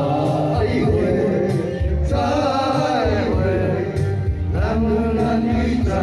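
A man singing over backing music.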